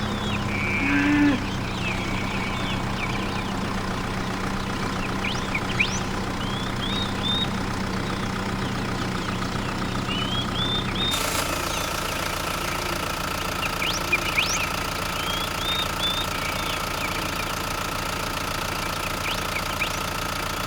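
A motor running steadily, with short high chirps above it. About 11 seconds in the sound changes abruptly and a steady higher whine takes over.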